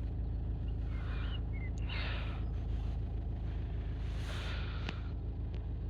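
Steady low engine hum of a stationary car heard inside the cabin, with a few soft breathy puffs and a couple of faint short chirps about a second or two in.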